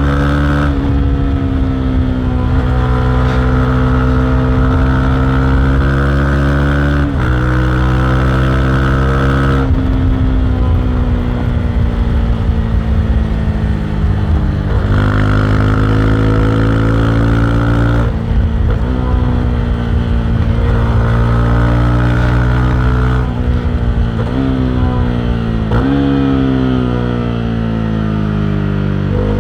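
Honda CB300R's single-cylinder engine running hard. Its pitch jumps suddenly about seven times and sinks slowly between jumps as the throttle and gears change.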